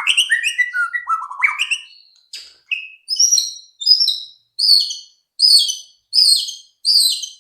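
White-rumped shama (murai batu) song from a lure track: a run of falling whistled notes, then from about three seconds in a short, high, sharp phrase repeated about every 0.6 seconds.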